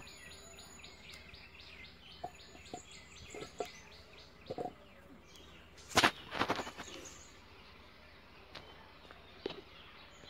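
Birds chirping outdoors, at first in a steady rapid series of high notes, about four a second, that fades after about four seconds. Faint clicks and rustling run through it, and about six seconds in a single sharp knock is followed by a second of rustling, the loudest sound.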